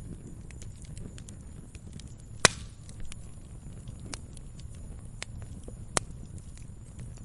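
Wood fire crackling in a fireplace: scattered small crackles over a steady low rumble, with two sharp loud pops, one about two and a half seconds in and another near six seconds.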